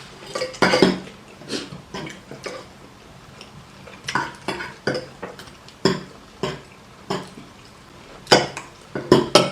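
Cutlery clinking and scraping against plates during eating: a string of irregular short clicks, loudest in a quick cluster near the end.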